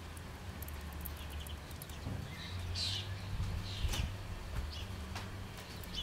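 Great tits giving short high chirps around a fat-ball feeder, with scattered faint clicks and a sharper tap about four seconds in, over a low steady hum.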